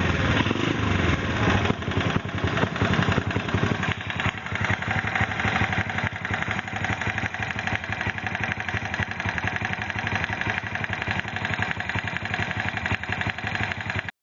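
Honda Super Cub's single-cylinder four-stroke engine running with a fast, even clatter, a little louder for the first few seconds and then steady. It is an abnormal engine noise whose cause the owner does not know.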